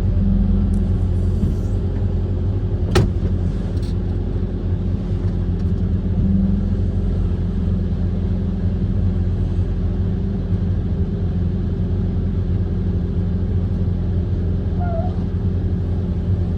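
Kobelco SK130 amphibious excavator's diesel engine running steadily, with a single sharp click about three seconds in.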